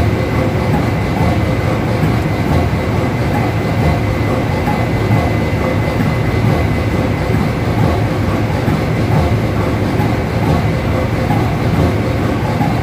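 Ship's engine room with the Wärtsilä RT-flex low-speed two-stroke marine diesel main engine running: a loud, steady, dense machinery rumble with a thin steady high whine over it.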